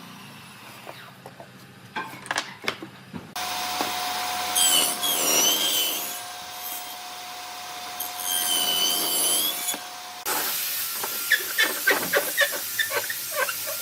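A woodworking power tool starts about three seconds in and runs with a steady whine that wavers up and down twice as it works the wood. It stops near the end, followed by a quick run of sharp clicks and scrapes.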